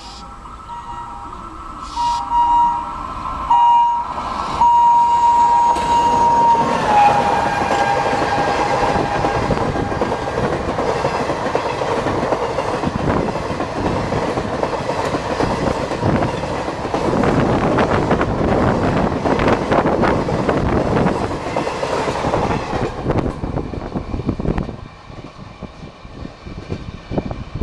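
WAP-4 electric locomotive sounding its horn as it approaches at speed, with louder blasts about two and four seconds in; the horn's pitch drops as the locomotive passes about seven seconds in. The express then rushes by with the clickety-clack of wheels over rail joints, dying away near the end.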